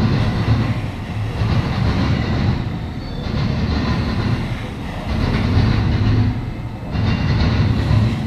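Norfolk Southern intermodal train's double-stack container well cars rolling past on the rails. It is a steady, loud low rumble that swells and eases every second or two.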